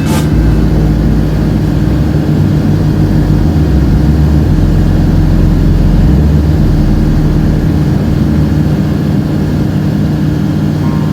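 Light aircraft's Rotax 912 flat-four engine and propeller droning steadily in flight.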